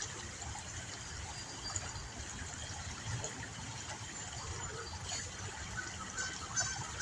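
Water of a small river flowing steadily, with a low rumble underneath. A run of short, pitched notes starts near the end.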